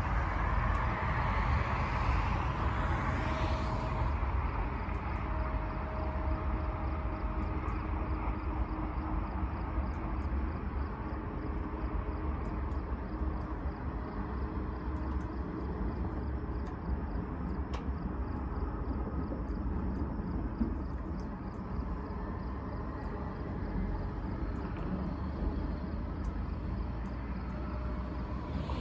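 Steady low outdoor rumble with a road vehicle passing in the first few seconds and another coming by at the very end.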